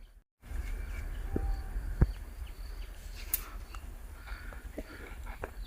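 Outdoor ambience: a steady low rumble of wind on the microphone, faint short descending bird chirps, and a few sharp knocks.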